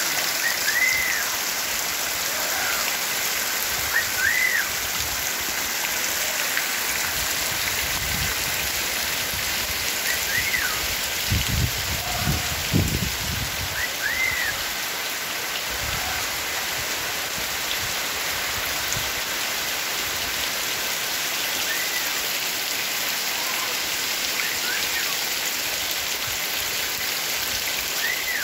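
Heavy rain pouring and splashing on the ground, a steady hiss. A short high chirp recurs every few seconds over it, and a low rumble swells around the middle.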